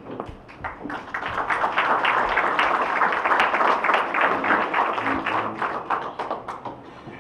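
Audience applauding: hand claps building up about a second in and tapering off near the end.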